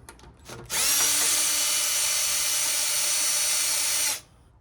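Cordless drill/driver spinning up and running steadily for about three and a half seconds with a high whine, backing out a Phillips screw, then stopping. A few small clicks of handling come just before it.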